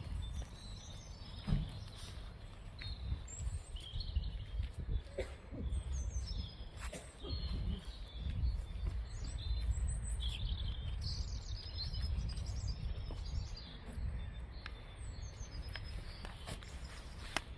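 Small songbirds chirping, many short high calls scattered through, over a steady low rumble.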